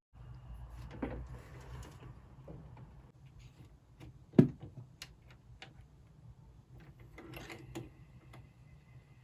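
Scattered faint clicks and small knocks over a low steady hum, with one sharper knock about four seconds in.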